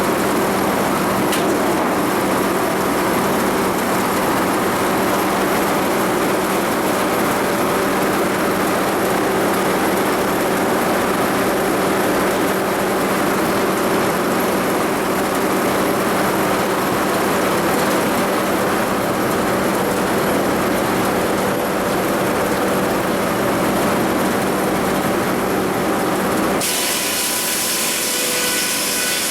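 Sawmill saw cutting through a cedar log: a loud, steady rush of sawing over the running mill machinery. About 27 seconds in the cutting noise stops abruptly, leaving the machinery running with a few steady whining tones.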